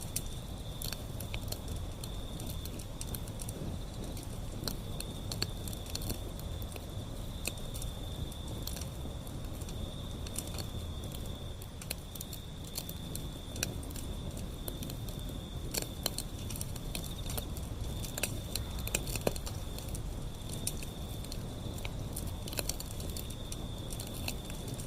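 Wood fire burning with irregular crackles and pops over a low steady rumble, with a steady high insect trill, like crickets, underneath.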